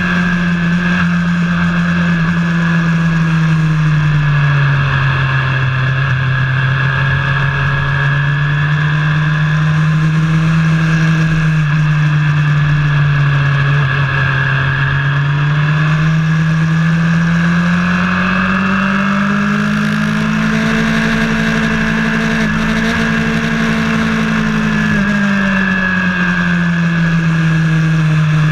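Vehicle engine heard onboard while lapping a track, its note falling and rising slowly as it eases off and speeds up again, with a steady high whine over it.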